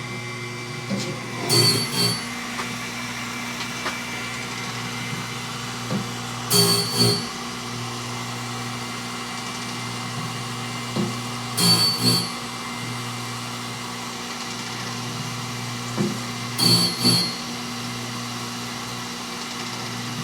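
Wood-Mizer BMS250 bandsaw blade sharpener running with a steady motor hum. About every five seconds comes a short double burst as the machine cycles to the next tooth and the grinding wheel passes over it.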